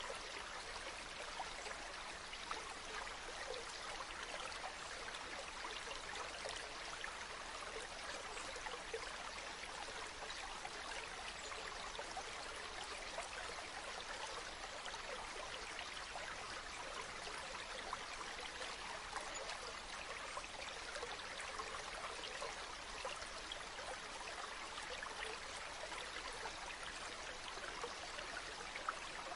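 A river or stream flowing steadily, water rushing and trickling over stones with a constant, even babble.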